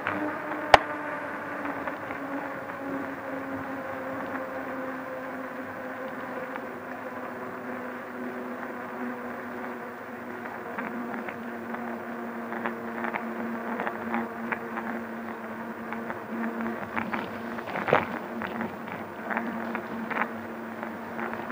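Fat-tire electric bike's hub motor whining steadily as it rides, its pitch sinking slightly over the first few seconds. Knocks and rattles from the bike on the road come in, with a sharp click about a second in and a louder knock near the end.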